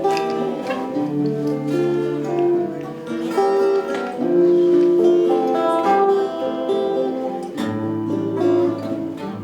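Instrumental interlude of a song on acoustic guitar: chords and melody notes played with no singing, between sung verses.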